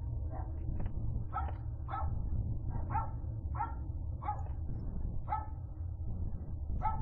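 Short, pitched animal calls repeated irregularly, about nine of them, every half second to a second, over a steady low rumble.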